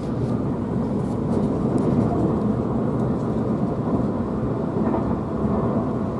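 Steady running noise of a Tobu 500 series Revaty limited-express electric train travelling at speed, heard from inside the passenger cabin.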